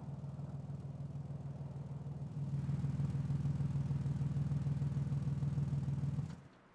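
Toyota Tacoma pickup's engine running with a steady low hum. It grows louder about two and a half seconds in, then is switched off and stops abruptly near the end.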